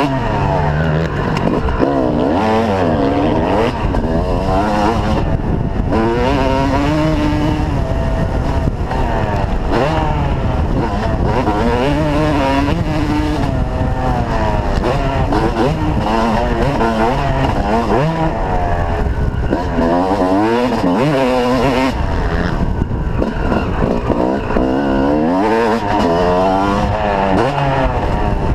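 Yamaha YZ250 two-stroke motocross bike engine under hard riding, revving up and falling back over and over as the rider opens and closes the throttle and shifts gears around the track.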